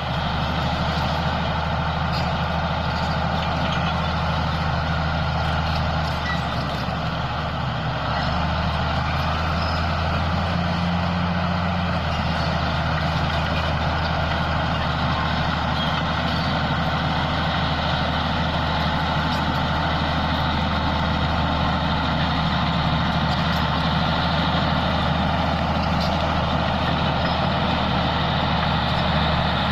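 Bulldozer's diesel engine running steadily, its note shifting briefly around ten seconds in.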